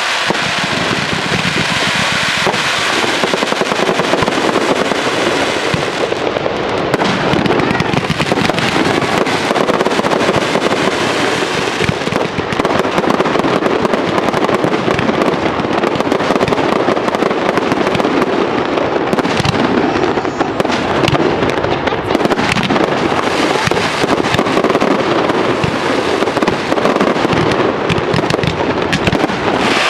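Fireworks display: a dense, continuous crackle of many rapid small bursts and pops, with no pause.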